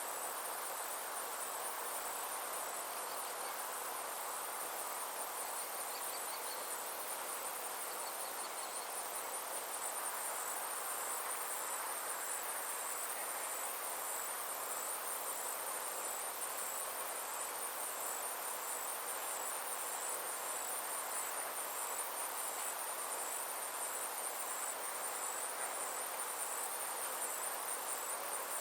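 Summer insect chorus: a high, steady pulsing trill that keeps an even rhythm throughout, over a continuous soft hiss.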